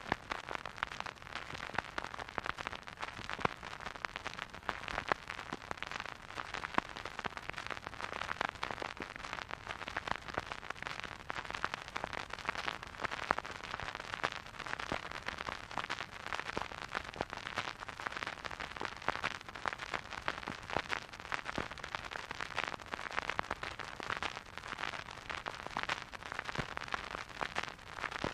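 Turntable stylus riding a vinyl groove with no music: steady surface noise of dense crackles and pops over a soft hiss.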